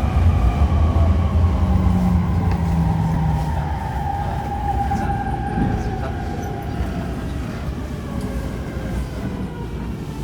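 E231-1000 series electric train heard inside a passenger car: the traction motor whine falls slowly in pitch over a low rumble of wheels on rail as the train slows down, and the sound grows gradually quieter.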